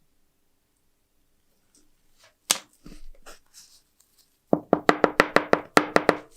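Quiet at first, then a single sharp click about halfway in, followed near the end by a quick, even run of about ten sharp knocks, roughly six a second.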